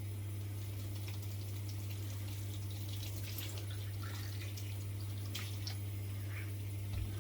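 Water splashing and dripping in a kitchen sink as dishes are washed by hand, with small scattered clinks and splashes, over a steady low hum.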